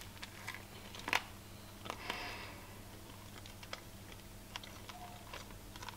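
Faint scattered crunches and clicks of someone chewing a bite of crusty pumpkin bread, one a little louder about a second in.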